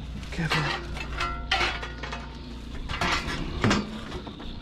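Hard metal objects clanking and clattering against each other as junk is moved, several knocks with a short ringing note about a second and a half in.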